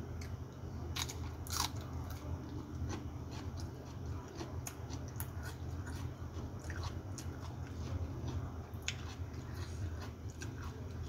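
A person chewing a mouthful of fresh lettuce leaves and rice eaten by hand, with scattered crisp crunches and small clicks over a steady low hum.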